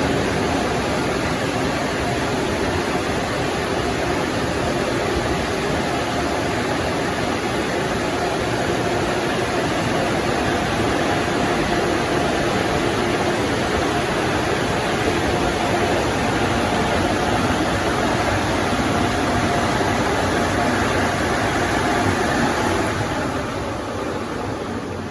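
PDQ LaserWash 360 car wash dryer blowers running steadily with a rushing air noise and a faint whine, winding down about two seconds before the end at the close of the dry cycle.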